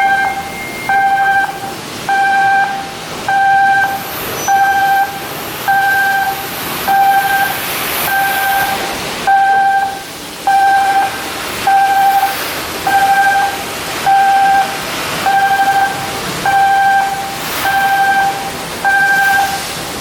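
Electronic warning beeper sounding in a steady pulse, a single pitched tone about once every 1.2 seconds, over workshop background noise. It is the kind of alarm that sounds while a crane or other yard machine is moving.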